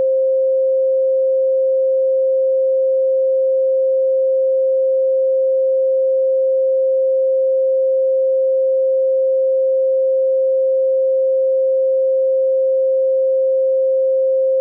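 A steady pure 528 Hz sine tone, a single unchanging pitch that holds at an even level throughout, used as a solfeggio healing frequency.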